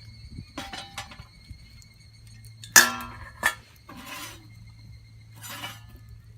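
Cooking gear being handled: sharp ringing clinks of hard objects, the two loudest close together about three seconds in, with softer scraping and rustling between them.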